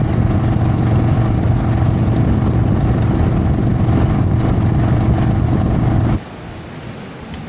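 Harley-Davidson Sportster's V-twin engine running at a steady speed, then cutting off abruptly about six seconds in.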